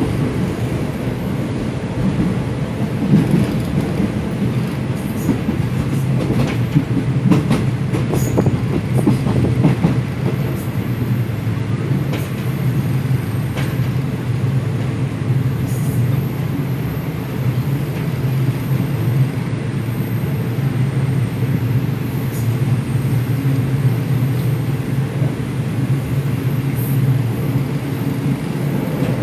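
Passenger coach of a moving train heard from inside: a steady low rumble from the wheels on the track, with scattered sharp clicks and knocks, most of them in the first half.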